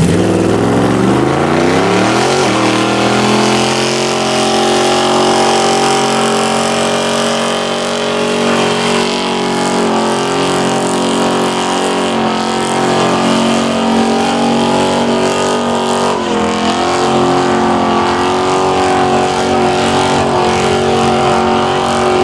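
A muscle car's V8 engine revs up over the first couple of seconds and is then held at high, steady revs, dropping briefly and coming straight back up about three-quarters of the way through.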